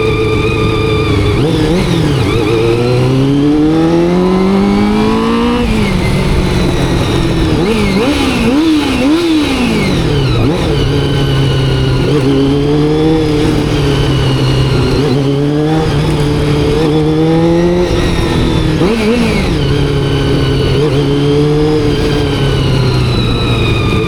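Honda CBR400RR's carbureted inline-four motorcycle engine under way. The revs climb steeply through a gear and then drop sharply at a shift, rise and fall quickly several times around the middle, and settle into steadier running with small throttle changes toward the end.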